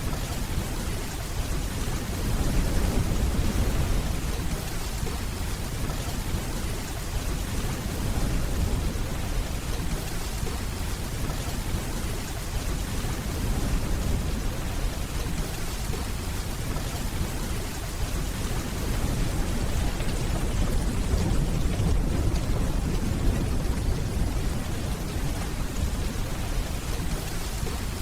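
Steady rainfall, an even hiss, with low distant thunder rolling in twice, a few seconds in and again past the middle.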